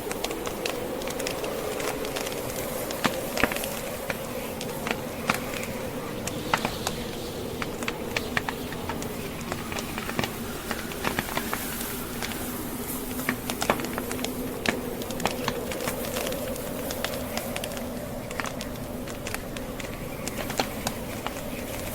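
Wood fire crackling, with frequent sharp pops and snaps at irregular intervals, over a blizzard's wind howling in a low tone that slowly wavers up and down.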